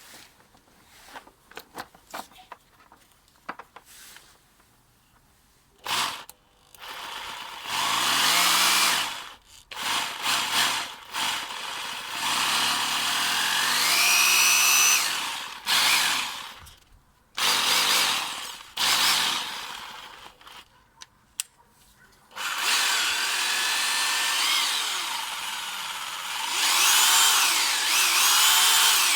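Corded XTline rotary hammer, a copy of the Bosch GBH 2-28, test-run in several bursts, its motor speeding up and winding down as the trigger is worked. Before the first run there are small clicks of the tool being handled.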